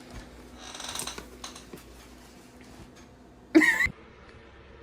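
Soft rustling, then about three and a half seconds in a single short, loud pitched cry lasting under half a second.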